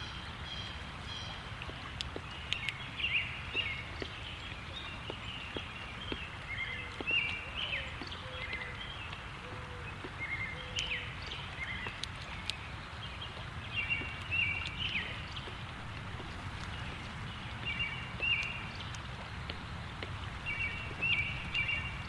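Wild birds calling with short, repeated chirps, some in quick pairs or clusters, over a steady low background noise. A few sharp taps are heard, and a short run of low notes about a third of the way in.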